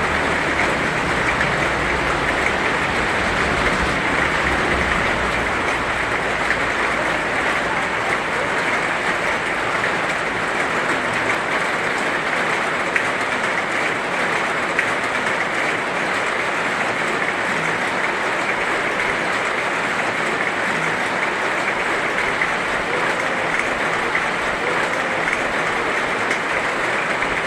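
Heavy rain falling steadily in an even hiss, with a low rumble underneath for the first several seconds that fades out.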